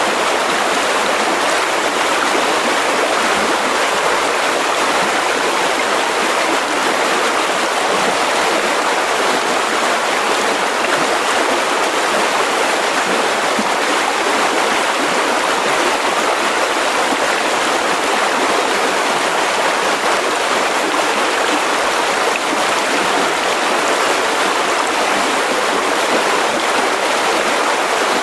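Mountain river rushing steadily over rocks, a continuous loud splashing rush of water with no let-up.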